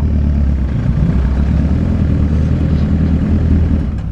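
Motorcycle engine running steadily while riding, mixed with a steady low rush of wind and road noise.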